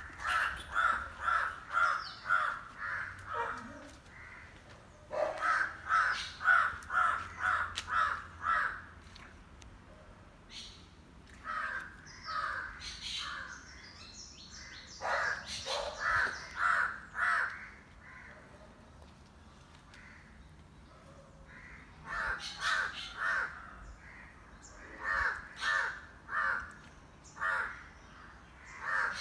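A bird calling in bouts of several short, evenly spaced calls, about two a second, with pauses of a few seconds between bouts.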